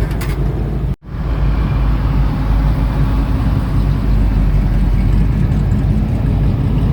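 A car engine running steadily with a low drone, cutting out for an instant about a second in.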